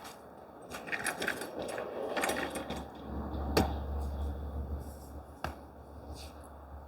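Handling noise from pitching a tent: scattered clicks, knocks and rustling as the hooks, cords and fabric are worked. There is a sharper knock about three and a half seconds in and another about five and a half seconds in, with a low rumble between them.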